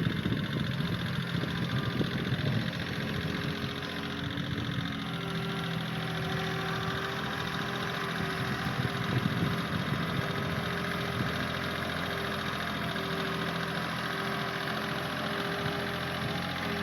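An engine running steadily at idle, with a low, even hum that settles about five seconds in.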